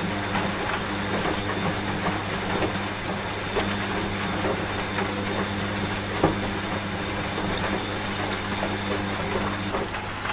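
Steady rain with scattered drips, layered over a washing machine's steady motor hum and a thin high whine; the whine and part of the hum drop away near the end.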